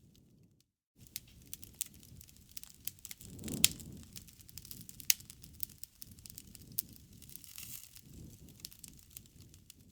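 Wood bonfire crackling, with scattered sharp pops over a low rush of burning. The loudest pop comes about three and a half seconds in. The sound cuts out for a moment just under a second in.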